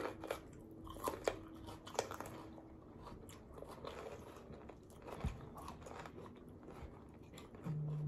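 Crunching bites and chewing of jalapeño peppers stuffed with cream cheese and crushed Takis rolled tortilla chips, as a run of crisp crunches, loudest in the first two seconds. A short low hum comes near the end.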